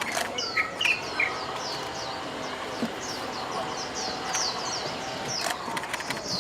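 Birds calling: a steady run of quick, high, downward-sliding chirps, about three a second, with a few lower whistled notes near the start.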